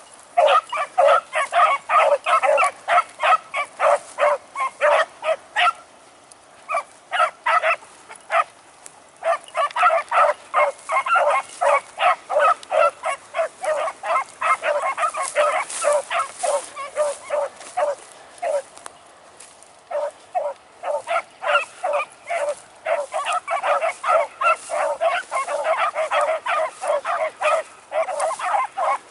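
Beagles baying on a rabbit's trail: rapid, overlapping short barks, several a second, breaking off briefly about six seconds in and again near the twenty-second mark before picking up again.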